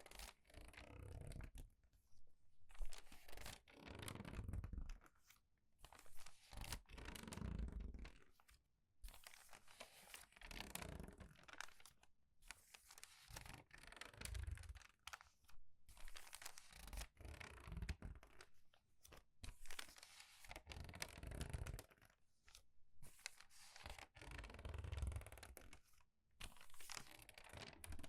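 Crinkled, crumpled paper pages being turned quickly and squeezed: a run of crisp crackling rustles about every second or two, each with a soft low thump of handling.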